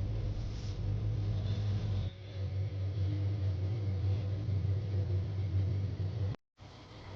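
Heavy vehicle engine running with a steady low rumble. The sound changes abruptly about two seconds in and cuts out to silence for a moment near the end.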